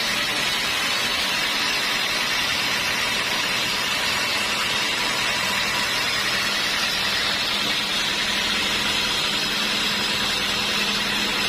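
Sawmill machinery running steadily, an even engine-like drone with a strong hiss and no breaks or changes.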